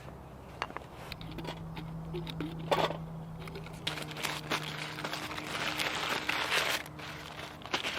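Crinkling and rustling of something being handled, with scattered small clicks, busiest in the second half.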